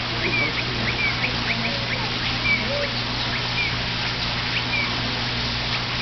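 Birds calling: many short, high chirps and whistles, some sliding down in pitch, several a second, over a steady low hum.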